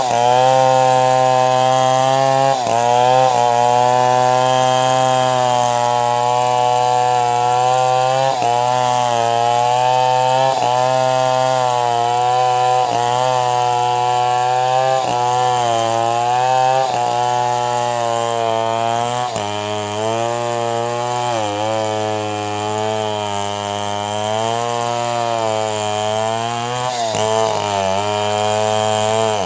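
Two-stroke chainsaw running at high revs while ripping a log into boards. It runs steadily throughout, and its pitch dips briefly every two seconds or so as the cut loads the engine.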